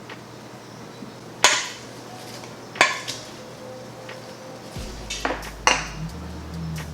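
Kitchen utensils and cookware clinking sharply, four distinct strikes, as vegetables are mixed with olive oil and salt in a dish.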